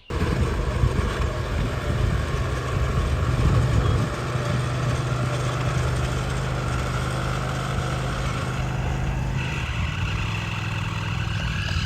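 Cub Cadet 1022 ride-on mower engine running steadily under load while its manual PTO clutch slips and burns out with the blade stalled. A higher whine joins near the end.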